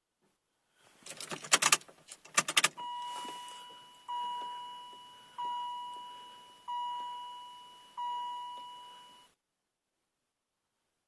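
Keys jangling and clicking, then the cab's warning chime sounding five times about a second and a quarter apart, each ding fading away.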